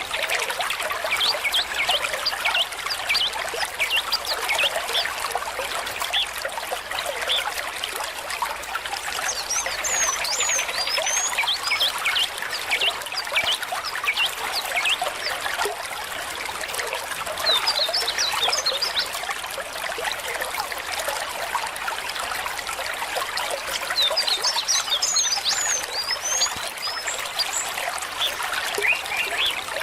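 Small stream trickling and babbling steadily. Bursts of quick, high chirps rise above the water about every seven seconds.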